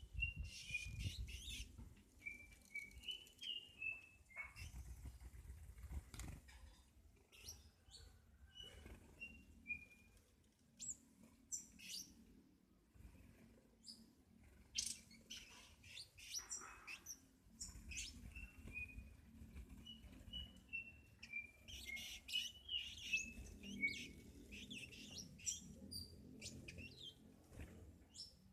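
Small songbirds chirping faintly: runs of short, high chirps near the start and again later, with sharp, high single calls scattered between.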